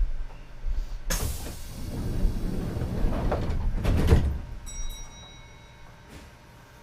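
Kintetsu 2430 series train's passenger doors sliding shut, ending in a thud about four seconds in. A short high tone sounds just after, then the car goes quiet.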